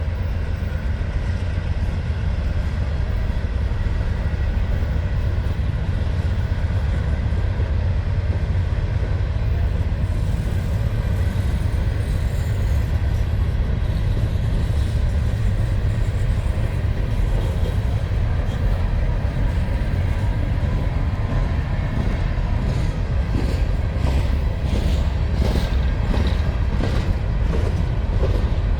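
Norfolk Southern diesel freight train with empty mine cars rolling past: a steady low rumble of locomotive engines and rolling cars. A regular clicking, about two a second, comes in near the end.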